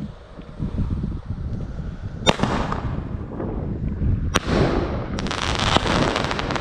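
New Year's Eve fireworks: a sharp bang about two seconds in and another a couple of seconds later, then a dense crackling of many quick snaps near the end. A low rumble of wind on the microphone sits under the first part.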